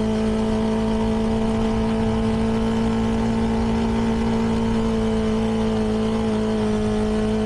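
CFMoto 300NK's single-cylinder engine running through its stock exhaust, holding steady revs while cruising, with only a slight dip in pitch a little past the middle.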